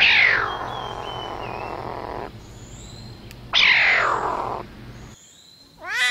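Lynx calling twice: a loud, high yowl that slides down in pitch, the first drawn out for about two seconds, the second shorter, with birds chirping faintly behind. Near the end, after a break, a serval's short call begins.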